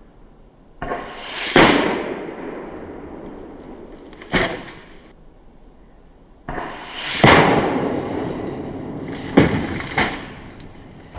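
AEA Terminator .35 big-bore PCP air rifle firing: sharp, loud reports, the two strongest about a second and a half and seven seconds in, with lighter cracks around four, nine and ten seconds in, each trailing off in a long echo.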